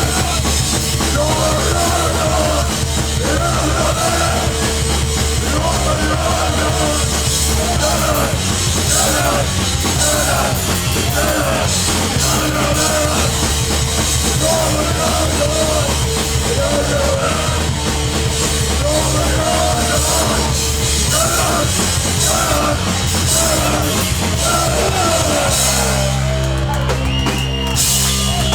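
A hardcore punk band playing live and loud, with distorted guitars, drums and vocals. Near the end the band stops on a held, ringing chord.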